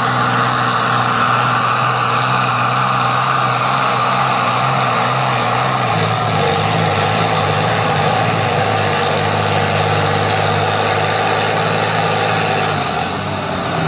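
A farm-class pulling tractor's engine running loudly at a steady high speed. Its note shifts slightly partway through and falls away near the end.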